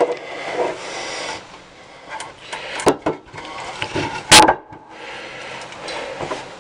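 Hands working on small parts: scraping and rubbing, scattered clicks, and one sharp knock a little past four seconds in.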